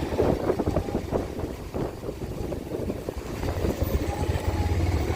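Motorcycle engine running while riding, with gusty wind rumble on the microphone; the engine's low drone grows steadier and louder about three and a half seconds in.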